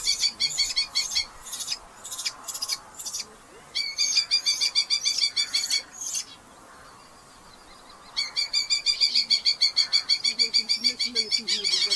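Red-footed falcon calling in fast runs of sharp, repeated notes: two runs in the first six seconds, a short pause, then a quicker unbroken chatter of about eight notes a second from about two-thirds of the way in.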